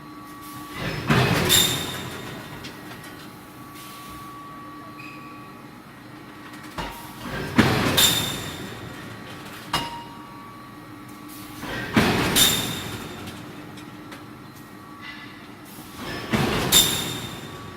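Induction hardening line for steel railway tie plates: a steady machine hum, broken four times, about every four to five seconds, by a short rising rush that ends in two sharp, ringing metal clanks as plates move along the roller conveyor.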